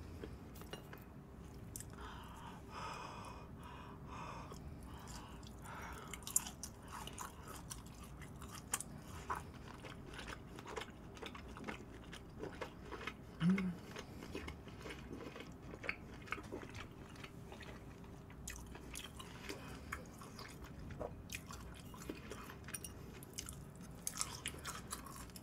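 Close-miked chewing of a piece of pan-seared beef steak, with many soft wet mouth clicks throughout. A short hum comes about 13 seconds in.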